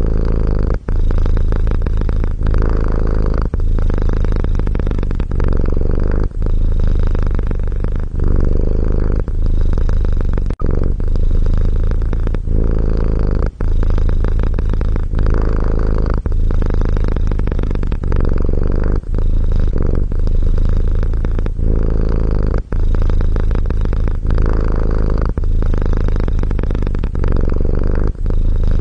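Domestic cat purring close and steadily, the low rattling purr broken by a brief dip about every second and a half as the cat switches between breathing in and out.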